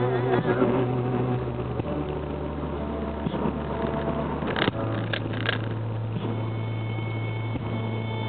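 Car engine and road noise heard inside the cabin as a steady low hum, in the gap between songs on the car stereo. A few brief clicks come about halfway through, and faint sustained notes of the next track come in near the end.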